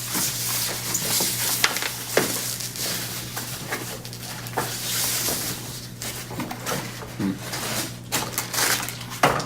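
Cardboard and plastic packaging rustling and scraping, with scattered knocks, as an air fryer is unpacked from its box. A steady low hum runs underneath.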